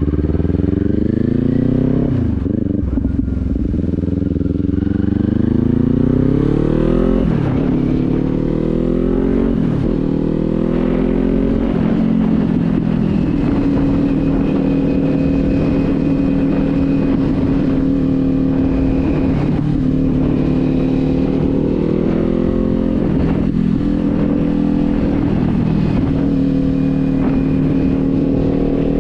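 A light Kawasaki motorcycle engine accelerating hard through the gears, its pitch rising and dropping at each of about four upshifts, then cruising at a steady speed. Wind noise buffets the microphone.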